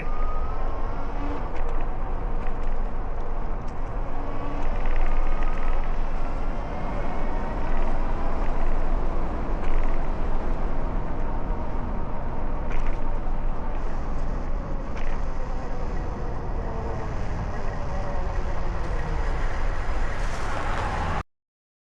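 Steady street traffic noise, with cars passing along a city road. It cuts off abruptly near the end.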